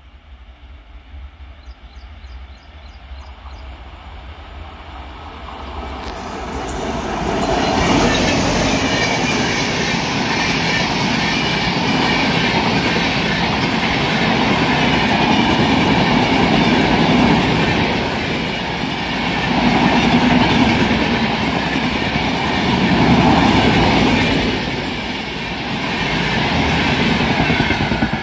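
Electric-locomotive-hauled Indian Railways passenger express approaching and then passing at speed. It is faint at first, grows over the first several seconds and is loud from about eight seconds in, as the coaches rumble past on the rails, the loudness swelling and dipping several times.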